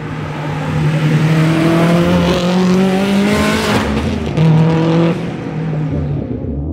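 Tuned 570 bhp Honda S2000's four-cylinder engine accelerating hard. The note climbs through a gear, breaks briefly for a gear change just under four seconds in, climbs again, then drops as it backs off about five seconds in.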